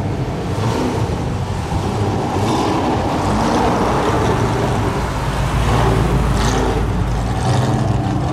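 Street-rod pickup's engine running as it drives slowly past at low speed. Its low note swells about five seconds in as the truck passes close, then eases.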